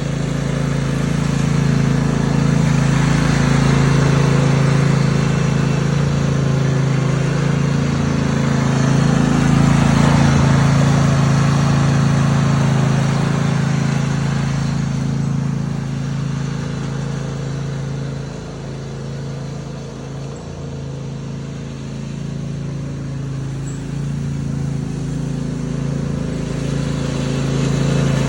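A 22-horsepower Husqvarna lawn tractor's engine running steadily as it is driven around, growing louder and fainter as it moves nearer and farther.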